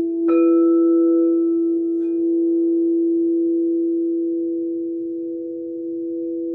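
Singing bowls ringing in long, steady pure tones. A low tone sustains throughout while a bowl is struck just after the start, adding a higher tone, with a lighter tap about two seconds in, and the ringing slowly fades.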